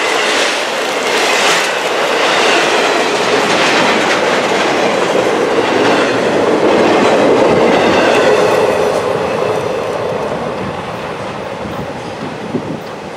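Intermodal freight train of highway trailers on flatcars rolling past close by, its wheels clacking on the rails. The sound fades over the last few seconds as the end of the train draws away.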